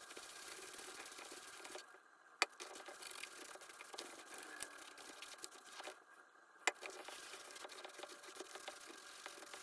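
Faint, sped-up handling and working sounds from a leather baseball glove being restored, a fast busy rattle, with a sharp click about two seconds in and another near seven seconds.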